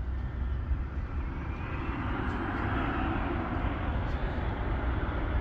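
Jet airliner's engines, a broad rushing roar that swells about two seconds in and stays loud, with a faint rising whine as it builds.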